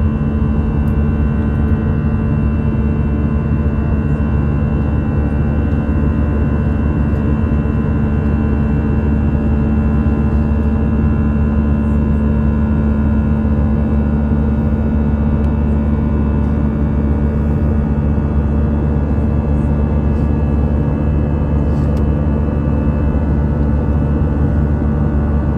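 Steady drone of an Airbus A319's jet engines heard in flight, a constant low hum with a higher whine held at an even level.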